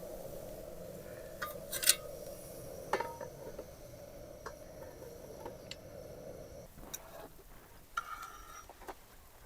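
Dishes and cutlery clinking: a string of sharp clinks, the loudest about two seconds in, some ringing briefly. A steady low hum under them stops suddenly about seven seconds in.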